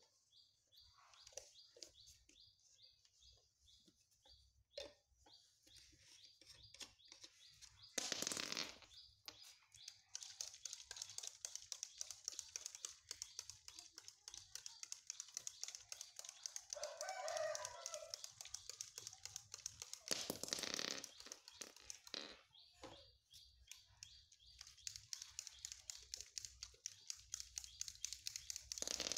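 Faint, rapid high-pitched chirping of birds. A short wavering call comes about two-thirds of the way through, and two brief rushing noises, the loudest sounds, come about a quarter of the way in and again about two-thirds in.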